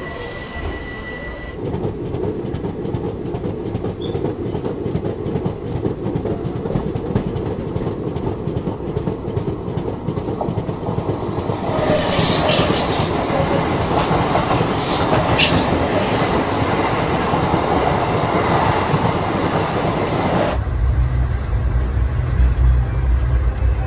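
Passenger train running on the rails: wheel and coach noise grows as the train pulls out and gathers speed. About halfway it gets louder, with rushing and sharp clatter, as another train passes close alongside. Near the end it cuts to the low, steady rumble heard inside a moving coach.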